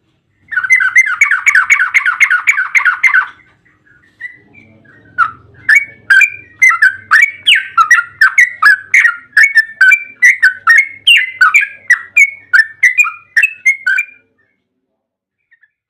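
Yellow-vented bulbul (trucukan) in long, rapid 'ropel' song. A quick chattering burst starts about half a second in and lasts some three seconds; after a short pause comes a longer run of bubbly, swinging notes, about three a second, that stops shortly before the end.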